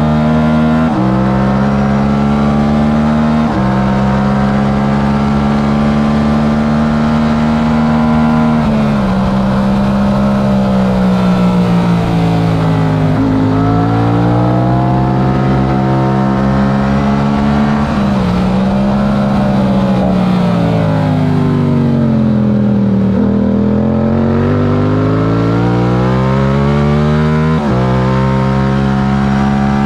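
Stock Yamaha R7's parallel-twin engine at racing speed: held at high revs with quick upshifts about one and three and a half seconds in, then the pitch falls and climbs several times as the bike brakes and accelerates through corners, with another upshift near the end.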